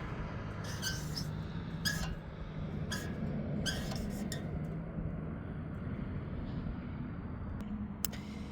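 A small engine running steadily, with short high squeaks about once a second in the first half, fewer after.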